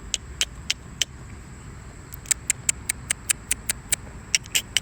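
A person making sharp clicking sounds with the mouth to call a squirrel: a few quick clicks early, a pause, then a faster run of clicks, over a faint steady high-pitched tone.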